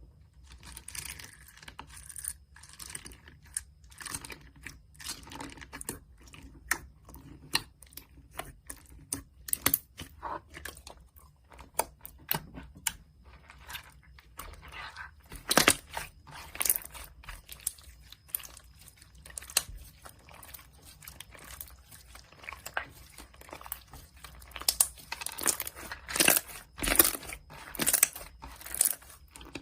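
Bead slime (slime packed with small plastic beads) being squeezed and pressed by hand, giving irregular crunchy crackles and clicks, with louder clusters about halfway through and near the end.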